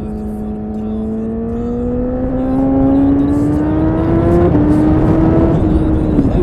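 Honda CBR1000RR Fireblade inline-four engine accelerating, its note rising steadily in pitch. Over the last two seconds the pitch steps down a little, dips briefly, then jumps back up.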